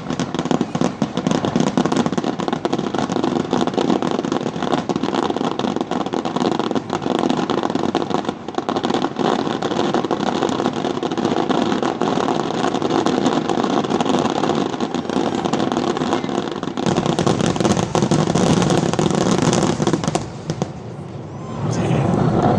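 Fireworks finale: a dense, continuous barrage of shell bursts and crackling. It eases off briefly near the end, then another volley comes in loud.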